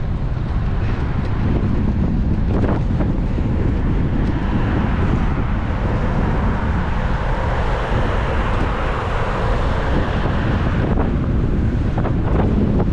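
Wind buffeting an action camera's microphone during a road-bike ride: a steady, heavy low rumble, with a louder rush midway through.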